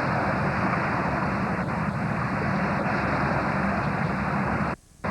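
Steady low rumbling noise without speech, cut off abruptly for a moment just before the end.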